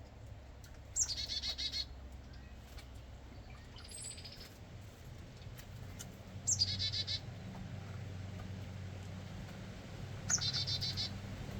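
A songbird sings the same short phrase three times, a few seconds apart: a high downslurred note running into a quick trill. A fainter call comes between the first two phrases, over a steady low hum.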